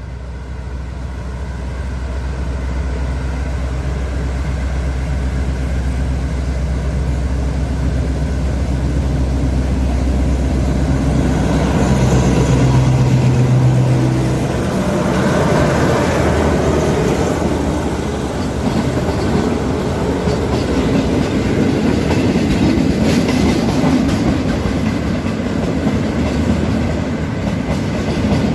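Diesel train passing close on its way into a railway tunnel. A loud low engine drone builds and then stops about halfway through, giving way to the rolling clatter of the cars going by.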